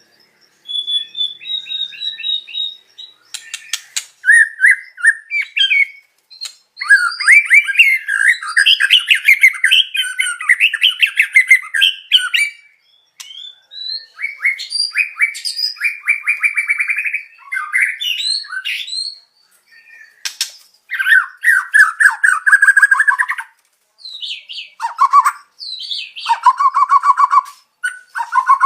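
Songbird song from a white-rumped shama tutoring track, mixing shama song with fill-in phrases of canary and other songbirds. It runs as a series of rapid trilled and chattering phrases, each a few seconds long, separated by short breaks.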